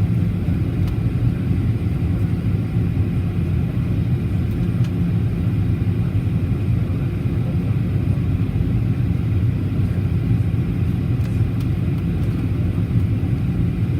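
Steady low rumble of a Boeing 737-800's engines and airflow heard inside the passenger cabin, even and unchanging throughout.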